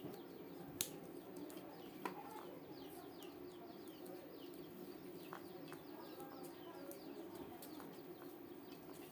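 Small birds chirping over and over, with a steady low hum underneath and two sharp clicks about one and two seconds in.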